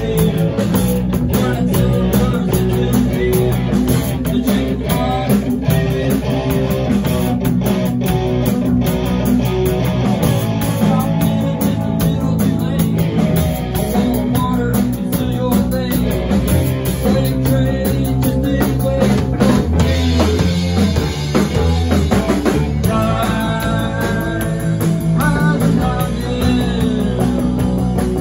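Rock band playing live: electric guitars, bass and drum kit going steadily, with a higher lead guitar line near the end.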